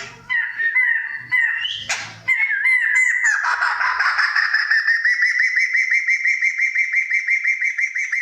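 Kriko Gayo songbird singing: a few separate whistled notes, then a long unbroken song that settles into a fast, even trill of repeated notes.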